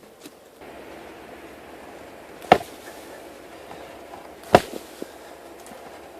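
Two sharp metal knocks about two seconds apart, a metal lever striking a buried car wheel rim as it is pried out of the ground.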